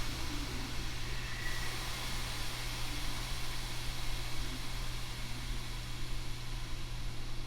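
Tokyo Metro 7000 series electric train running between stations, heard from inside the car: a steady rumble and hiss of the wheels on the rails under a constant low hum.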